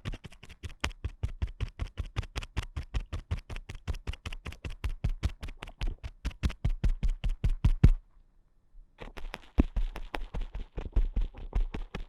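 Ear pick scratching rapidly inside the ear of a binaural microphone, several quick strokes a second with a dull thump in each. The strokes stop for about a second near two-thirds of the way through, then start again.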